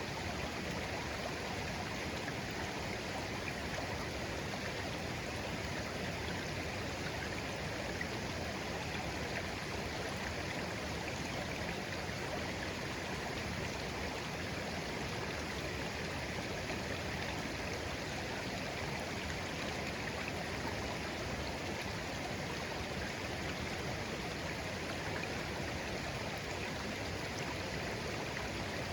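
Clear shallow stream flowing gently over stones, a steady babbling rush with no change.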